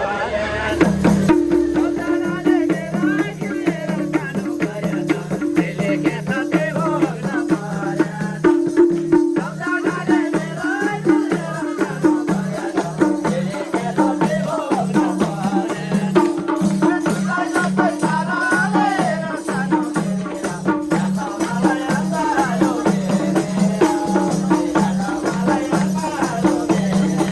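Nepali dohori folk music played live: a steady rhythm of pitched drum strokes with shaken jingle percussion, under a wavering melody line.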